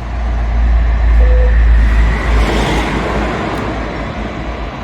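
Low rumble of a passing road vehicle, swelling in the first second or two and then slowly fading.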